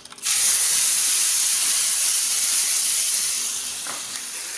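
Blended chili paste (sambal) frying in hot oil in a wok: a loud, steady sizzle that starts suddenly as it hits the oil and eases a little near the end.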